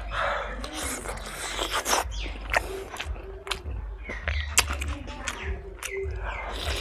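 Close-up wet chewing and lip-smacking of fried pork and rice eaten by hand, full of quick sharp mouth clicks, with a few short 'mm' sounds. A steady low hum runs underneath.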